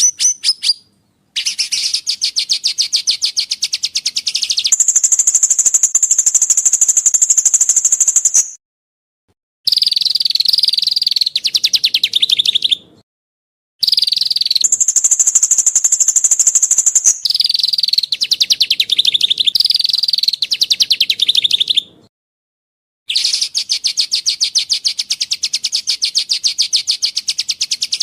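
A songbird singing long, fast trills of rapidly repeated high notes in phrases of a few seconds, some pitched higher than others, broken three times by sudden complete silences. It is song-training material (masteran) of rough and clear trills for kicau-mania birds.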